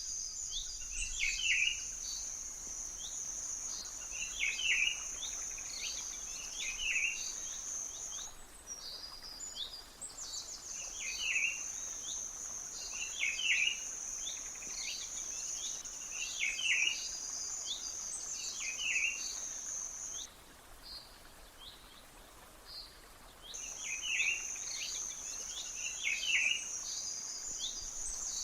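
A bird gives short chirped calls, repeated every second or two, over an insect's steady high-pitched buzzing. The buzzing cuts out for about three seconds roughly two-thirds of the way through, then resumes.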